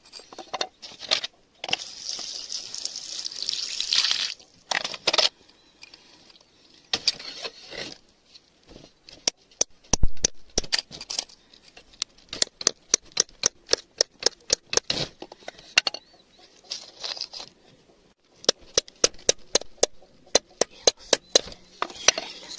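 Small pieces of glass clicking and clinking together in quick runs, with a gritty scraping of soil and stone about two seconds in.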